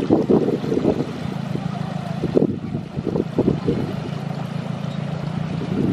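7¼-inch gauge miniature railway train running: a steady low hum with clusters of clacks in the first second and again around the middle.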